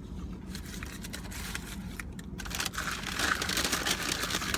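Paper fast-food bag and wrappers rustling and crinkling as they are handled, much louder from about halfway through, over a steady low hum.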